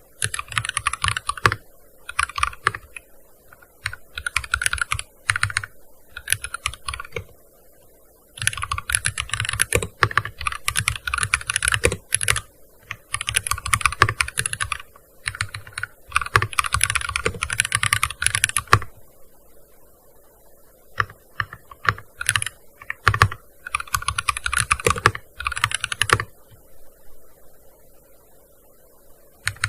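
Typing on a gaming keyboard: quick runs of key clicks lasting a few seconds each, broken by short pauses, thinning to scattered single keystrokes in the last third.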